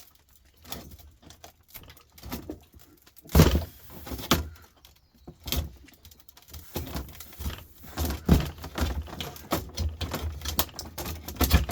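Irregular clicks, knocks and clatter of hand tools on metal and plastic parts, made while a desktop computer power supply is taken apart for scrap. The loudest knocks come at about three and a half seconds and eight seconds in.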